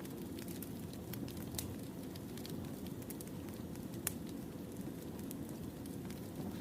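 Wood fire burning: a steady low rush with scattered sharp crackles and pops, the loudest pop about four seconds in.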